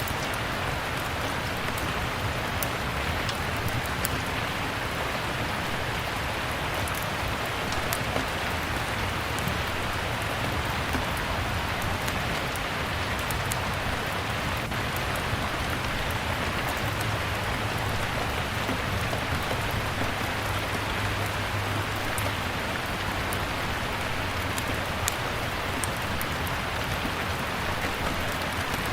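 Steady rain falling, with scattered sharp crackles of a wood fire mixed in.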